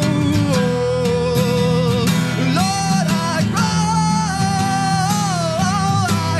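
Acoustic guitar accompaniment with a voice holding long sung notes that slide between pitches, no clear words.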